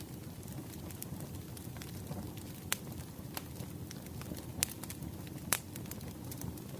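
Wood fire crackling: a steady low rumble of burning logs with scattered sharp pops, the loudest about five and a half seconds in.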